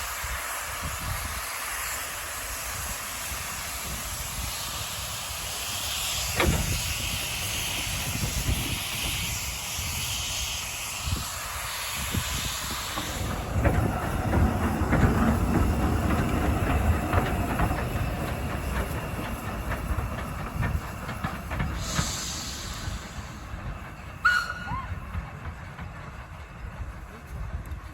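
Steam train: a steady hiss of steam, then, from about halfway, the train running with low rumbling and rattling wheels that grows louder and then fades away.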